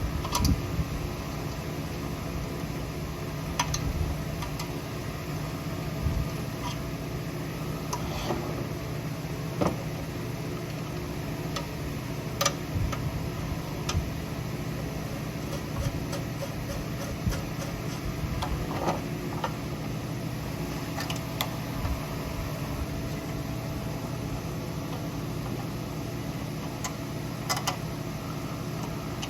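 Steady mechanical hum like a fan or air conditioner, with scattered clicks and knocks of tools and small engine parts being handled during assembly.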